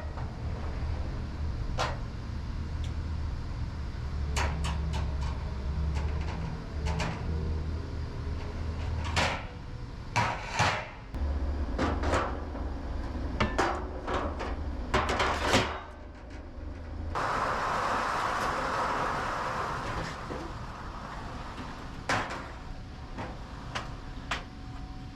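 Knocks and clatter of objects being handled over a low steady hum, the hum stopping about 16 seconds in; then a hissing rush lasting about four seconds.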